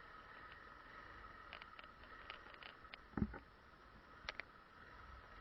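Faint, muffled running of a motorcycle slowed to a stop in traffic, a steady low hum with light ticks, and a single short knock about three seconds in.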